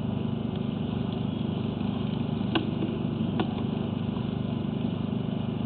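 A steady low mechanical drone, with two faint clicks partway through.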